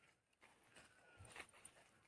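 Near silence, with a few faint footsteps.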